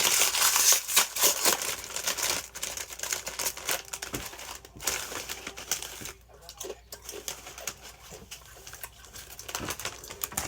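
Close-up crinkling and clicking of food being handled and eaten, loudest in the first two seconds, then sparser.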